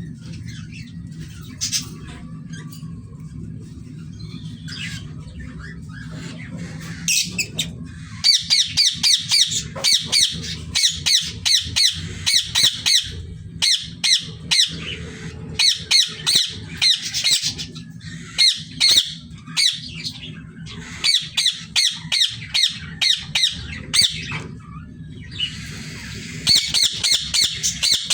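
Parrots squawking: sparse, softer calls at first, then from about eight seconds in, rapid harsh squawks in bouts about a second long, repeating with short pauses. A steady low hum runs underneath.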